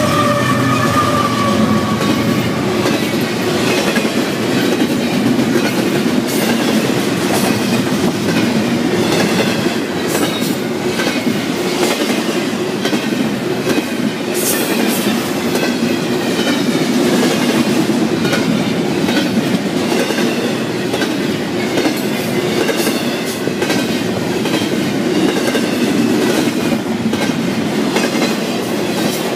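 BNSF double-stack intermodal freight train passing close by. The last diesel locomotive's engine falls in pitch and fades over the first couple of seconds. Then the container well cars roll past with a steady rumble and the clickety-clack of their wheels over the rail joints.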